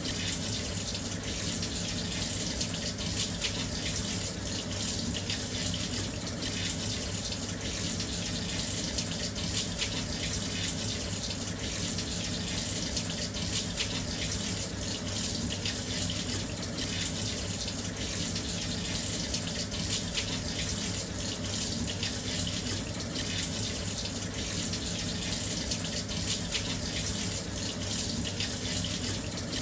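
Washing machine filling with water: a steady, unbroken rush of water pouring into the drum, with a low hum underneath.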